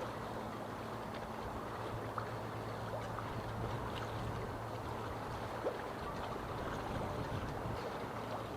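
Small harbour waves lapping and sloshing against the marina's quay and moored boats, a steady watery wash with occasional small splashes, over a steady low hum.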